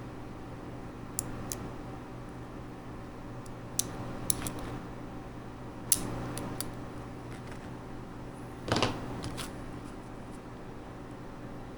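Steady hum of a running computer's fans, with scattered clicks and taps and a short louder clatter about nine seconds in.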